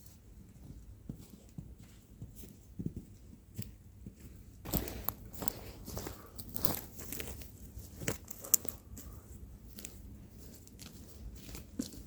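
Rustling, tearing and crunching handling noises with scattered clicks, busiest from about five to nine seconds in, with one sharp click near the end of that stretch.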